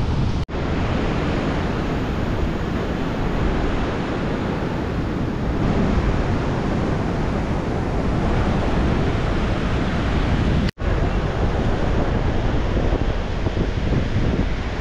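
Strong wind blowing on the microphone, with surf breaking beneath it. The sound cuts out for an instant twice.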